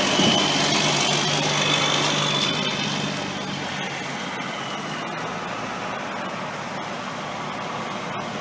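Heavy semi-truck engine running, with a steady low hum and a faint high whine, dropping off in loudness about three seconds in and then running on more quietly.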